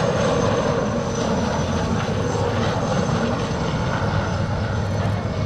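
IAR-330 Puma military helicopter in flight, its twin turboshaft engines and rotor making a steady drone with a thin, high turbine whine held above it.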